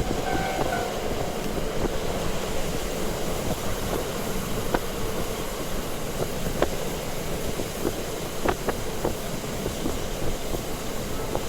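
Onboard running noise of a KiHa 40 diesel railcar in motion: a steady rumble of engine and wheels on the rails, with a few sharp clicks and rattles scattered through it.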